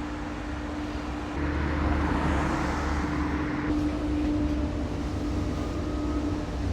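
A bakkie (pickup) on the move: a steady engine hum with road and wind noise, getting louder about a second and a half in.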